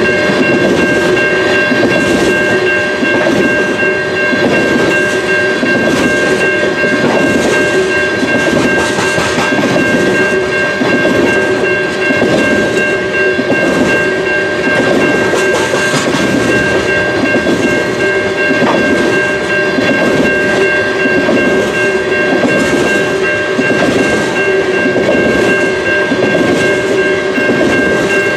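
Loaded oil tank cars of a long freight train rolling past, their wheels clicking over rail joints in a steady rhythm, with a constant high ringing tone held throughout.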